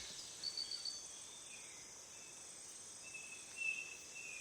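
Rainforest ambience of insects: a steady high-pitched drone throughout. A short pulsed trill comes about half a second in, and thin, drawn-out whistled calls come near the end.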